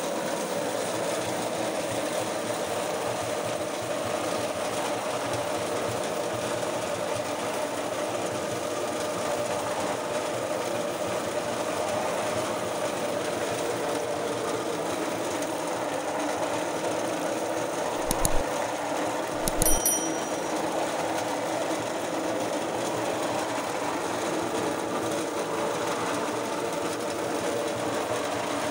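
A small machine running steadily with an even mechanical whir, with a few sharp clicks about 18 and 20 seconds in.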